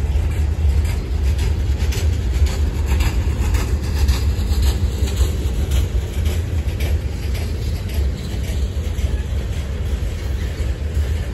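Freight cars of a manifest train rolling past, a steady low rumble with irregular clicks from the wheels on the rails.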